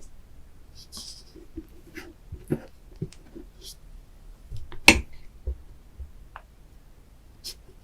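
Close-miked mouth sounds of a person eating chocolate ice cream: scattered wet clicks and smacks of chewing, with one sharper, louder crack about five seconds in.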